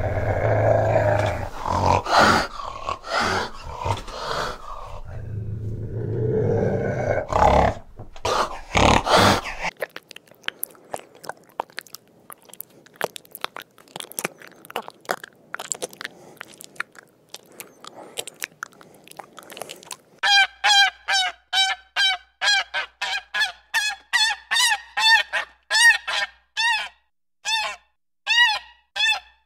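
A run of goose honks, roughly two a second, each call rising and falling in pitch, fills the last third. Before it come loud, low, rough animal sounds, then a quiet stretch of rapid clicks.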